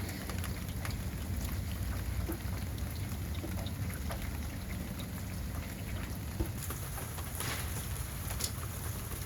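Steady rain falling, with many small drops ticking on nearby surfaces and wind rumbling on the microphone.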